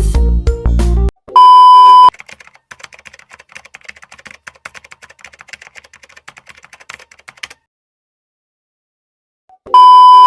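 Background music cuts off about a second in, followed by a loud, steady beep sound effect. Then comes about five seconds of rapid, faint typing-like clicking, a short silence, and a second identical beep near the end.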